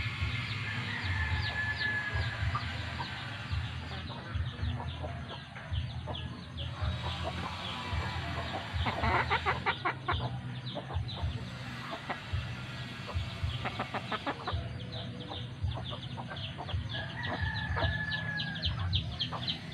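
Chickens clucking in many short calls, with two longer held calls, one near the start and one near the end. A steady low hum runs underneath.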